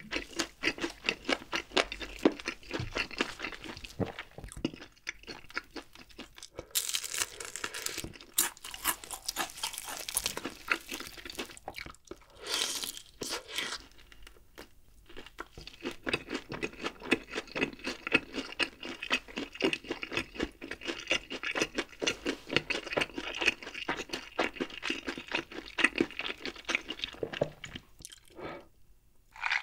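Close-miked crunching and chewing of crispy honey-glazed fried chicken, as bites of crust and meat are pulled from the bone: rapid crackles throughout, with two louder brief spells of crackle about seven and twelve seconds in.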